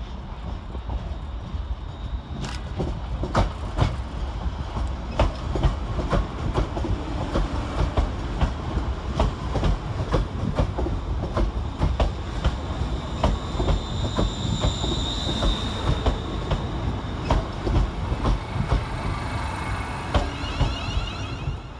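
ScotRail Class 380 electric multiple unit arriving, its wheels clicking irregularly over rail joints and pointwork over a steady rumble. A brief high wheel squeal comes about two-thirds through, with more high squealing near the end.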